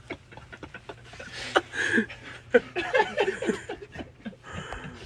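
People snickering and laughing in short bursts, with a few sharp knocks and rustling.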